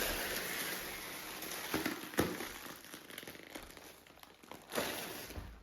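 Clear plastic mattress bag crinkling and rustling as it is handled and pulled off, with a few sharp crackles about two seconds in and a louder rustle near the end.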